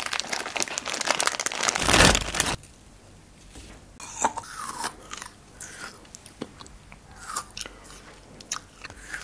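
Close-miked eating of frozen cherries: a loud, dense crackling crunch for about the first two and a half seconds that stops abruptly, then quieter chewing with scattered clicks and wet mouth sounds.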